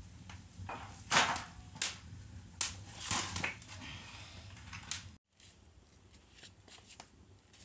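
Sharp crackling and snapping of a wood and cardboard fire in a fireplace, irregular pops of different loudness. It cuts off abruptly about five seconds in, leaving only faint ticks.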